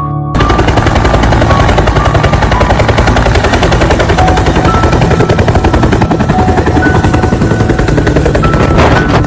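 Close helicopter sound: a rapid, even beating from the rotor with a steady high turbine whine over it, starting and cutting off suddenly.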